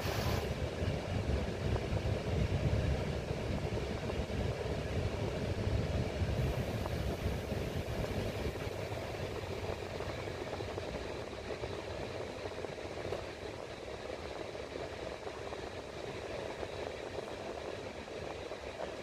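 Steady rumble and running noise of a Senegal TER commuter train (an Alstom Coradia Polyvalent) heard from inside the carriage, easing off gradually as the train slows into its terminus. A brief sharp hiss comes right at the start.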